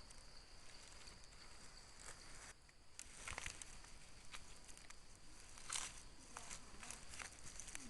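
A steady high insect buzz with scattered crackles and rustles of dry leaves and twigs underfoot, the loudest cluster about six seconds in.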